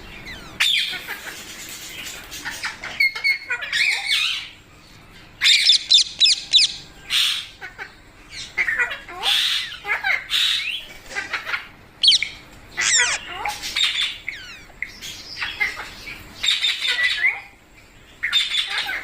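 Parrot squawking and calling: clusters of short, shrill, sweeping calls in quick succession, with brief pauses between runs.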